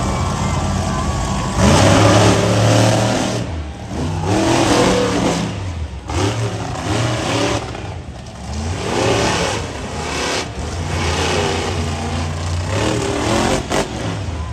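Monster truck engines running hard and revving, the pitch climbing and dropping again and again as the throttle is worked, with a loud surge about a second and a half in.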